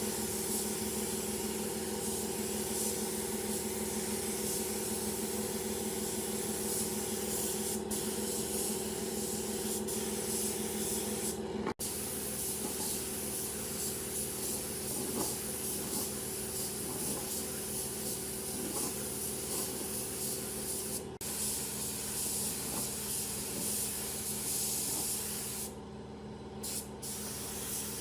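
Compressed-air spray gun hissing steadily over a steady motor hum, typical of spraying a finish on wood; the hiss briefly thins out twice near the end while the hum carries on.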